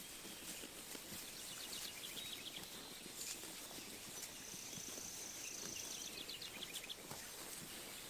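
Sheep grazing close by, tearing and chewing grass in an irregular crackle, while small birds chirp across the field with two quick trills and a thin held whistle in the middle.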